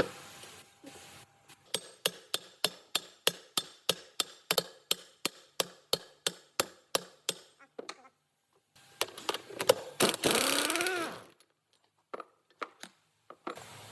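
Hand tool work on metal: sharp strikes or clicks at a steady pace of about four a second for roughly six seconds. After a short pause comes a noisy burst of about two seconds with a pitch that wavers up and down, followed by a few scattered clicks.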